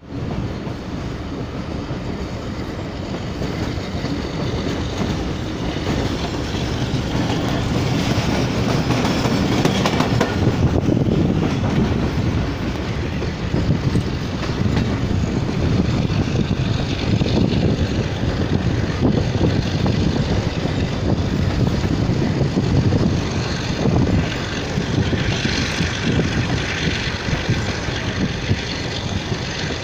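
Passenger train running, heard from an open coach window: a steady rumble with the coach wheels clattering over the rails.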